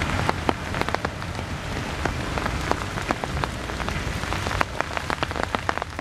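Heavy rain falling, a steady hiss with many sharp drop hits close by, over a low rumble.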